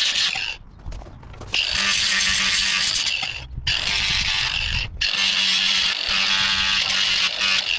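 Grinder grinding rust off a steel crowbar: a harsh grinding noise over the motor's steady hum, coming in several long passes with short breaks as the wheel is lifted off and put back on the bar.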